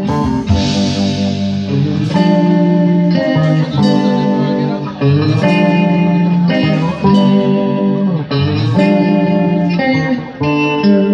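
Live band playing a slow song led by guitar, with held notes that change every second or so.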